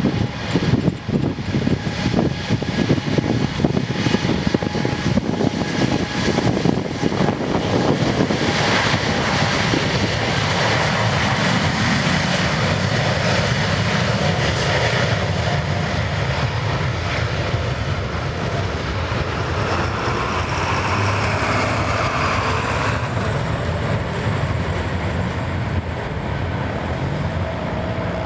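Boeing 747-8's four GEnx-2B jet engines at takeoff power. The noise is rough and crackling at first and settles into a steadier rumble after about eight seconds.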